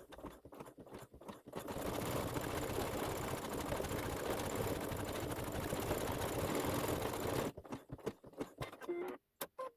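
Embroidery machine stitching at a steady speed for several seconds, with a few separate clicks before it starts and after it stops.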